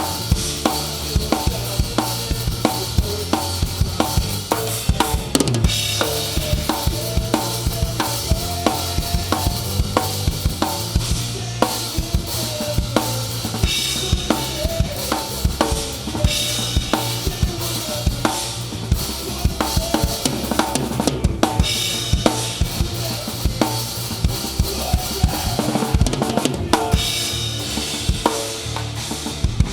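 A rock band playing an instrumental passage live, with a drum kit close up: kick and snare hits at a steady beat over bass and guitar.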